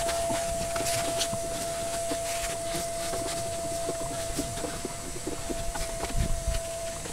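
A small electric power tool's motor running at a steady speed, with irregular clicks and scrapes of work over it.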